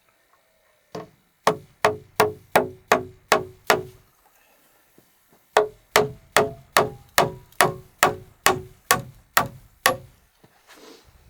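Repeated blows of a hand tool striking wood, about two and a half a second, each with a short ring: a run of about eight, a pause, then about eleven more.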